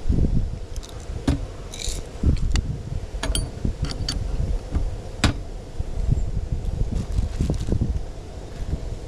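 Wind buffeting the microphone in uneven gusts, with scattered clicks and light knocks of things being handled.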